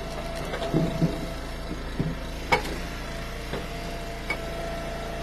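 Eastonmade Ultra wood splitter's engine running steadily with a held whine, and a few sharp knocks spread through.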